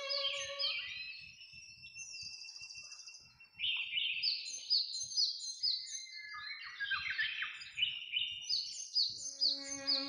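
Songbirds chirping in quick runs of short, high, falling notes, with a brief buzzy trill about two seconds in. Held music chords fade out in the first second and come back near the end.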